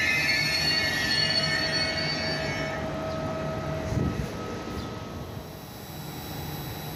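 Trenitalia Vivalto double-deck regional train rolling slowly along the platform, with a high-pitched metallic squeal of several tones from its running gear that stops about three seconds in. Under it runs a low rumble, with a single thump about four seconds in, and then the rumble quietens.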